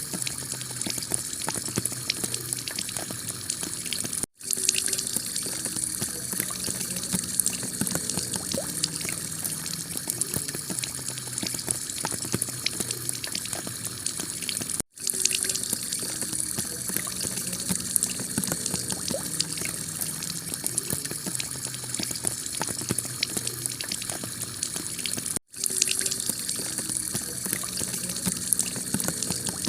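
Heavy rain falling on a tile roof, a steady hiss thick with the hits of single drops. It cuts out for an instant three times, about ten seconds apart.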